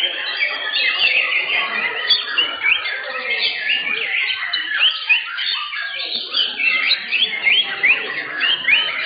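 Many white-rumped shamas (murai batu) singing at once: a dense chorus of overlapping whistles and quick rising chirps, over a low murmur of crowd voices.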